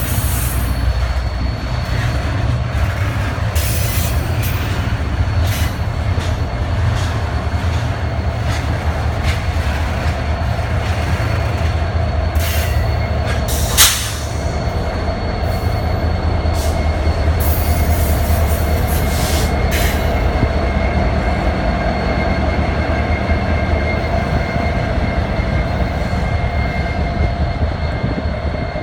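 A Norfolk Southern container train's cars rolling past, with a steady heavy rumble, thin wheel squeal and scattered clicks from the wheels on the rails. A single sharp bang about fourteen seconds in.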